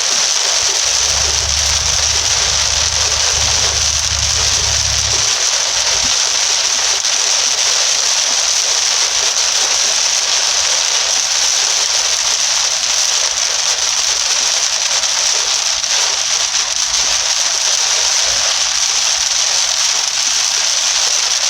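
Heavy rain drumming steadily on a car's roof and windshield, heard from inside the car. A low hum sounds for about four seconds near the start.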